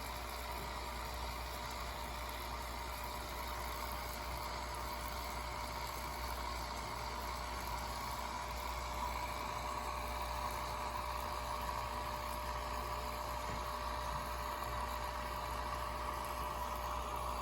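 Steady background hum and hiss with a faint constant tone, unchanging throughout.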